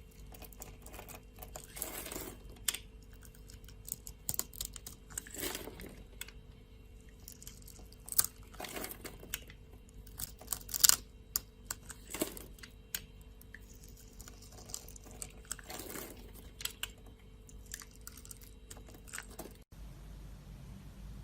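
Knife cutting dry soap: irregular crisp crunches and clicks, with a few longer scraping strokes through the bar.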